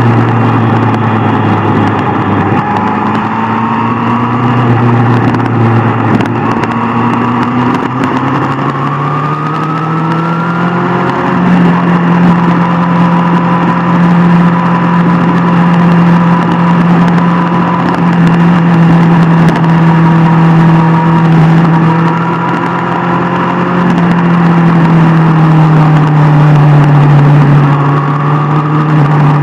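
Superbike engine running hard under way. Its pitch climbs about a third of the way in as it accelerates, holds steady at higher revs, then eases down near the end.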